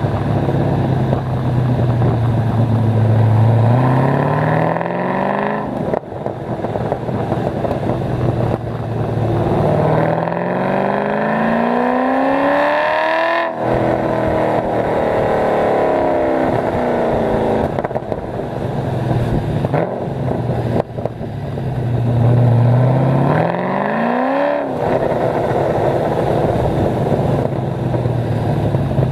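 Modified LS1 V8 of an HSV VY Clubsport R8, with a big cam, ported heads, long-tube headers and an X-pipe exhaust, pulling hard under acceleration. Its pitch climbs steeply and breaks off sharply three times. After the second pull the note falls away slowly as the revs drop, then runs steady before the last climb.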